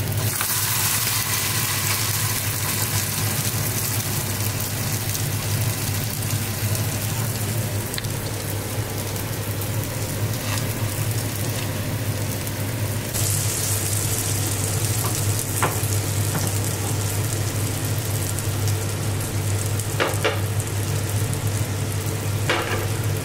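Sticky rice pancake batter sizzling in hot oil in a flat frying pan, a steady hiss that grows stronger about halfway through. A few short taps, with a steady low hum underneath.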